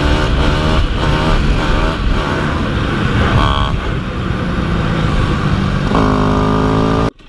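Dirt bike engine revving up and down in quick, repeated swings as the bike is ridden, then holding a steady high rev near the end. The sound cuts off abruptly just before the end.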